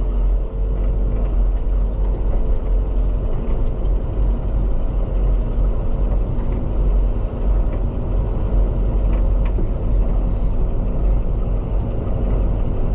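Farm tractor engine running steadily with a low, even rumble.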